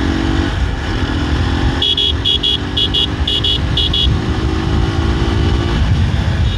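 Motorcycle running in road traffic with a low rumble, while a vehicle horn gives a quick string of short high-pitched beeps in pairs, about two to four seconds in. A steady droning tone runs beneath the beeps and stops near the end.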